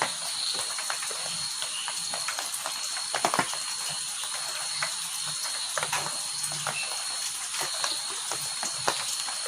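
Heavy rain falling steadily, with close drops splattering in sharp irregular spatters. There is no thunder in it.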